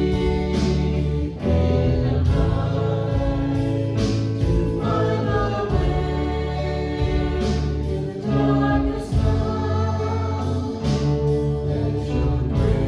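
Live contemporary worship music: a band with strong bass and a steady beat, and voices singing a Christian worship song.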